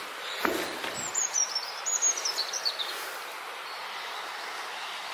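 A small bird singing a quick run of high chirps that step down in pitch, over a steady background hiss, with a soft thump just before the song.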